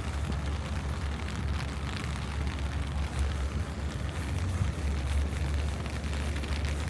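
Steady city street ambience: a constant low rumble of traffic under an even hiss of rain and wet streets.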